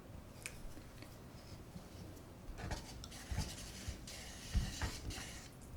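Close-miked eating and food-handling sounds: scattered light taps and clicks, with a rustling, scraping stretch a little past the middle.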